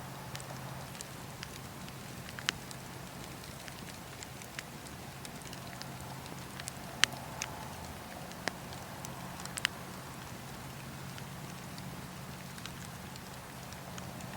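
Campfire burning: a steady hiss of flames with irregular sharp crackles and pops from the burning wood, the loudest about seven seconds in.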